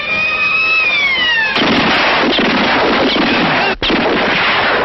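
A falling whistle for about a second and a half, then dense, continuous gunfire that barely pauses near the end: film gunfight sound effects.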